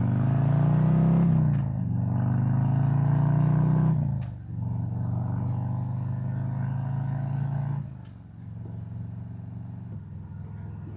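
Harley-Davidson Road Glide V-twin engine accelerating, its pitch rising and dropping at two gear changes about one and four seconds in. It then runs steadily and eases off somewhat near eight seconds in.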